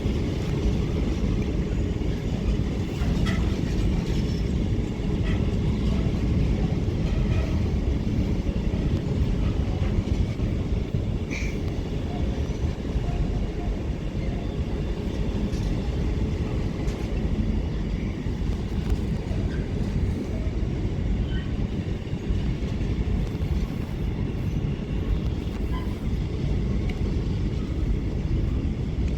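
A very long freight train hauled by a Class 66 diesel passing through, its wagons rolling by in a steady low rumble with scattered small clicks and squeaks from the wheels and couplings.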